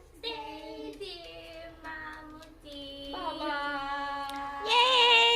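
A high, child-like voice singing long held notes that step upward, ending on a louder, wavering note.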